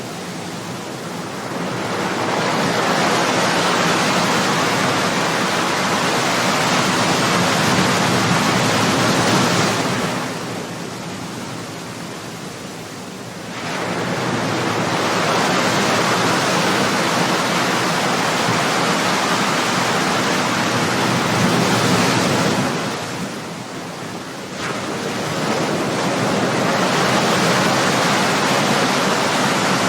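Ocean waves breaking on a shore: long rushes of surf that swell up and ease off, with a short lull between rushes about every twelve seconds.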